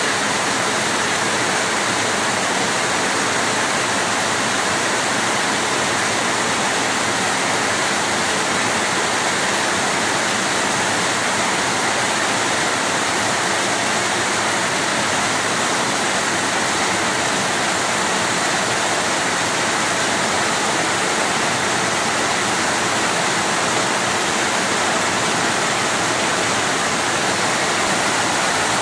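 Heavy monsoon rain pouring down steadily on trees, lawn and a gravel drive, an even, unbroken hiss.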